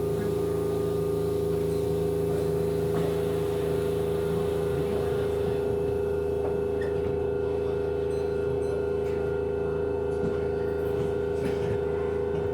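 Running sound of a Keihan 3000 series electric train heard inside the carriage: the Toyo IGBT VVVF inverter and traction motors giving a steady electronic whine of several held tones. A lower tone drops out about four seconds in and a higher one comes in a couple of seconds later.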